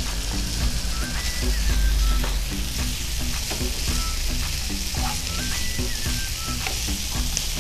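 Pork, bell peppers and onions sizzling in a hot wok as they are stirred, with scattered clicks and scrapes of the utensil against the pan. Soft background music plays underneath.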